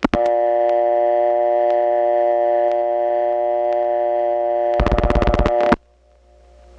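Step-by-step telephone exchange dial tone, a steady buzzy tone, broken about five seconds in by a rapid burst of rotary dial pulses as a digit is dialed. After the pulses the tone stops and only a low hum stays on the line.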